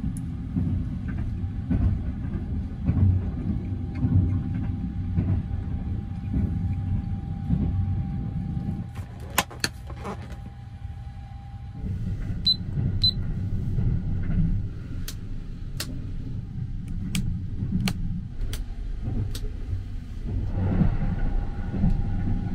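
Running noise inside a compartment of the Sunrise Izumo sleeper train at speed: a steady low rumble with a faint steady hum. The rumble eases for a few seconds in the middle, and scattered sharp clicks come through in the second half.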